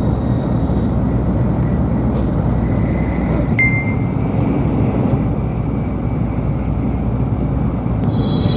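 Steady rumble of a Shinkansen train running, heard inside the passenger cabin, with a short click about three and a half seconds in. Music comes in near the end.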